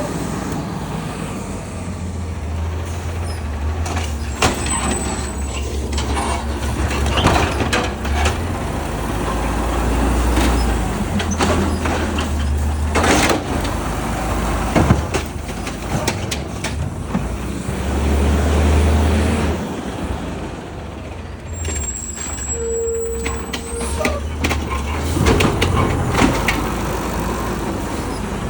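Garbage truck engine running with a steady low rumble, with repeated clanks and bangs from the collection work and a brief high-pitched whine twice.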